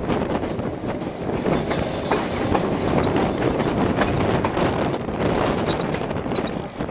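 Narrow-gauge open passenger coach running along the track, its wheels clattering over the rail joints and the coach body rattling steadily.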